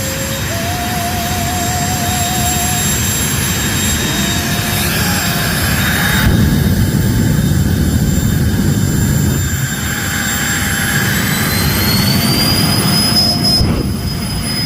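Jet dragster's turbine engine running loudly and steadily, with a high whine that rises in pitch about eleven seconds in as the engine spools up. This is a practice run, not a full pull.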